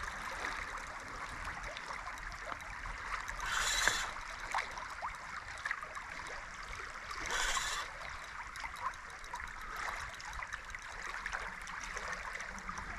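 Steady rush of flowing river water, with two short, louder bursts of noise about four and seven and a half seconds in.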